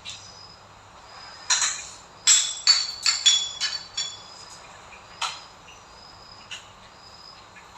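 A quick run of sharp clinks and taps with a bright ringing edge, about half a dozen close together a second and a half in, then one more a little past the middle.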